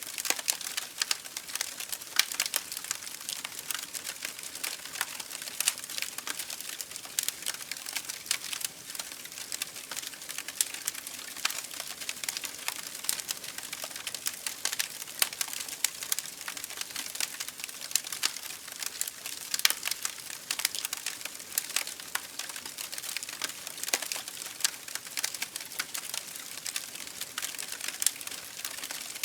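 Campfire burning: wood crackling and popping in many irregular sharp snaps over a steady hiss of the flames.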